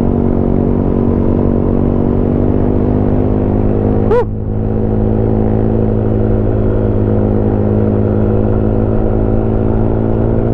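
Yamaha Smash underbone motorcycle's small single-cylinder four-stroke engine running at a steady speed while riding. A brief, high, sharp chirp cuts in about four seconds in.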